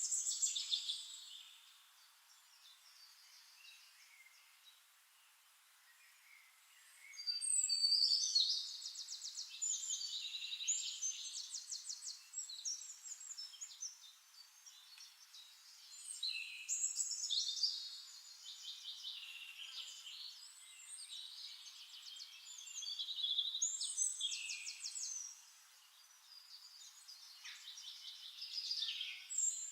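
Songbirds singing: phrases of chirps and rapid trills come every several seconds, with quieter gaps between them.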